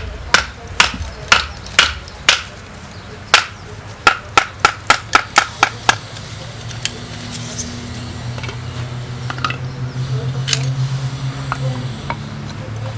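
Carbon-steel striker hitting a flint, sharp metallic strikes about two a second for the first six seconds, throwing sparks onto charcloth, then one more strike later on. A low steady rumble builds up underneath in the second half.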